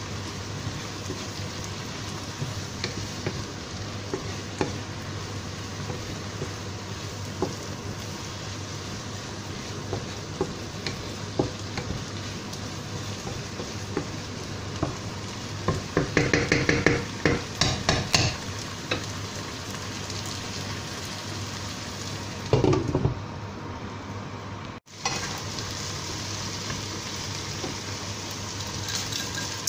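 Chopped onion and leek sizzling in a nonstick pan, stirred and scraped with a wooden spatula, with a steady low hum underneath. The spatula scrapes and clatters louder for a couple of seconds about halfway through, and briefly again a few seconds later.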